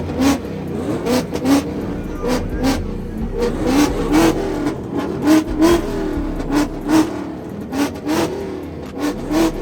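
Car engine revved hard in quick repeated blips, with sharp cracks about two or three times a second over a low steady rumble.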